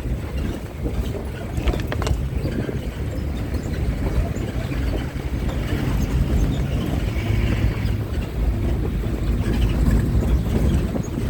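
Moving bus: a steady low engine and road rumble, with a couple of short clicks about two seconds in.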